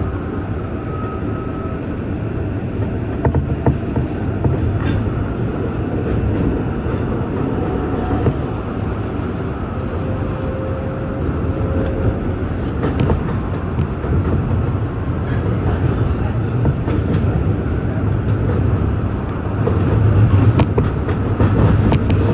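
An R188 7 subway train running on the Flushing Line: a steady low rumble with scattered sharp clicks, growing louder near the end.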